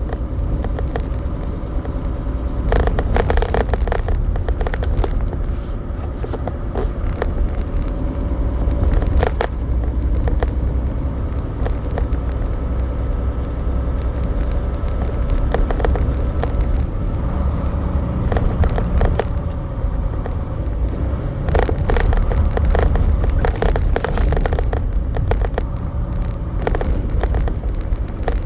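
Semi truck driving: a steady low engine and road rumble with a faint steady hum, broken by frequent sharp rattles and clicks that come in clusters.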